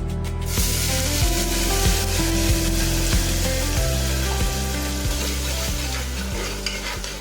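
Vegetables and onion-tomato purée sizzling as they fry in a hot pan for sambhar, a steady frying hiss that dies away near the end.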